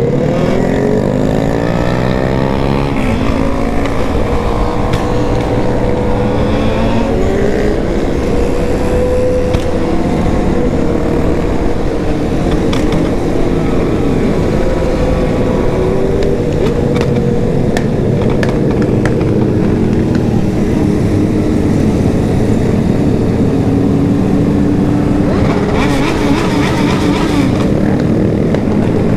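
Several remapped sport motorcycle engines running together at high revs, their pitches climbing together at the start as the group accelerates, then holding and wavering as they ride on. Near the end a burst of harsher, higher noise rises over them.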